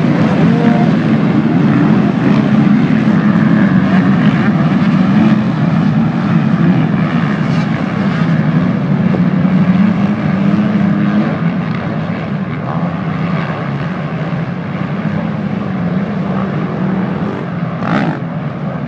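A pack of motocross motorcycles racing, many engines revving together in a loud drone whose pitch rises and falls, growing quieter in the second half. A short sharp crack near the end.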